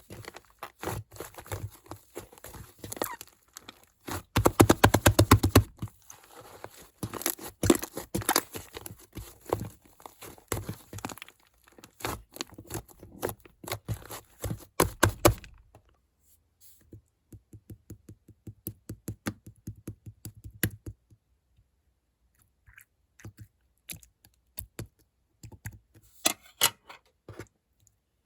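Slime being squished and poked by hand, making a dense run of small clicks and crackles that is loudest about five seconds in. After about fifteen seconds the clicks turn sparser and softer, with pauses between them.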